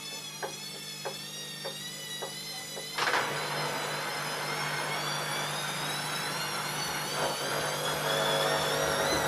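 Elin A 100 E washing machine running: a steady whine with a slightly wavering pitch and light clicks about every half second. About three seconds in, a loud rushing noise starts suddenly and grows louder.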